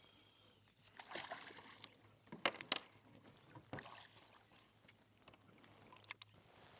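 Water splashing and sloshing beside a kayak as a hooked largemouth bass is played and brought in, with a few sharp knocks from about two and a half seconds in.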